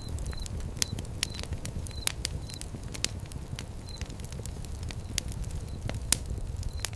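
Fire pit fire crackling, with sharp irregular pops over a steady low rumble of flames. Faint short high chirps come and go in the background.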